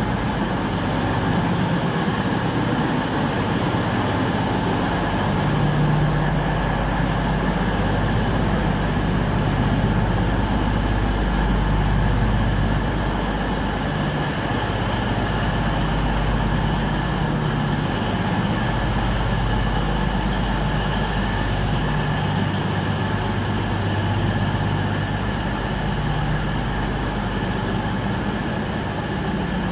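Diesel train engines running steadily, their note stepping up and down a few times as the engine speed changes.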